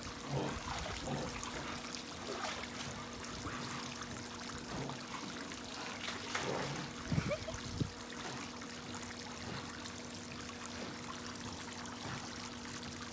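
Water running and trickling steadily, with a few small splashes and a faint steady hum beneath.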